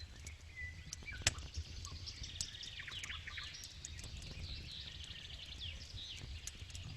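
Wood campfire crackling with scattered pops, one sharp pop about a second in, over a low steady rumble, while birds chirp in the background, most busily in the middle.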